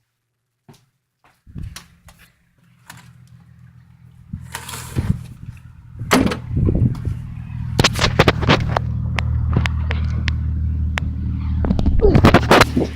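An engine starts running about a second and a half in and keeps running steadily, with knocks and clatter over it that are loudest near the end.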